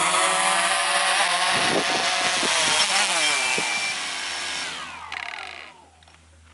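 Quadcopter drone's propellers whining as it comes down to land; the pitch shifts and slides down, then the motors spin down and stop about five and a half seconds in.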